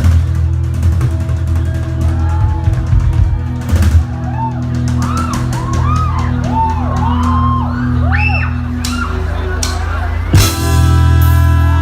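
Live church worship band playing an instrumental passage: drum kit and steady bass under a lead melody of bending, arching notes. About ten seconds in the full band comes in with a loud hit.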